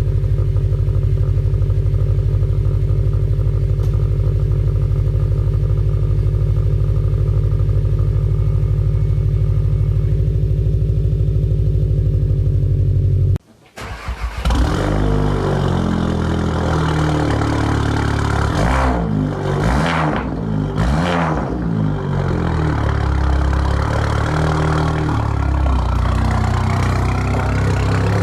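A vehicle engine running steadily; then, about thirteen seconds in, another engine cranks briefly, fires on a cold start, is revved up and down a few times and settles into a steady fast idle.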